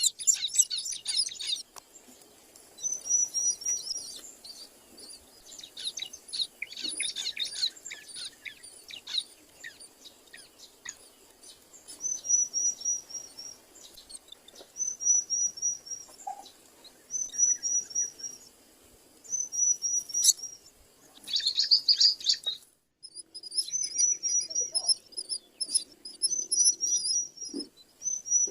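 Birds chirping: dense bursts of high chirps at first, then a short high trilled phrase repeated about every second and a half.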